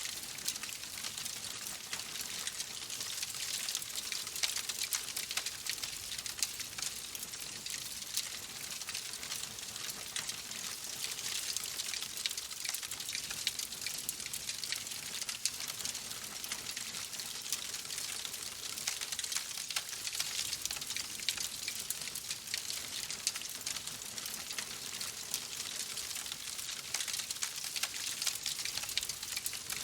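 Wood fire crackling steadily in a fireplace: a dense hiss full of small, sharp pops and snaps.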